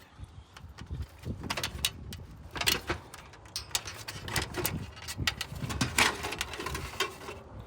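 Irregular clatter of hands and tools working on an outdoor air-conditioner unit: scattered knocks and clicks with brief scraping rattles of metal parts.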